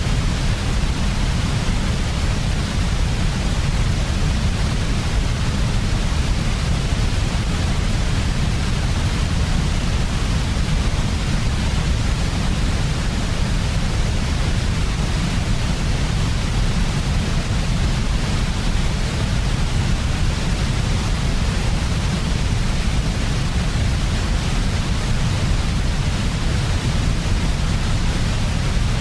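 Steady, unchanging white noise for sleep: a continuous artificial hiss with a heavy deep rumble underneath.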